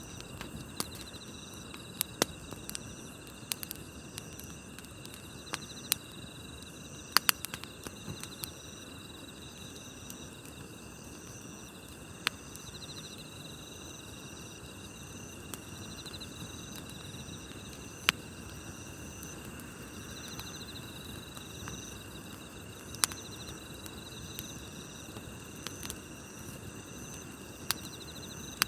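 Wood campfire crackling with a low hiss and sharp pops every few seconds, over a steady chorus of night insects chirping in pulsing high trills.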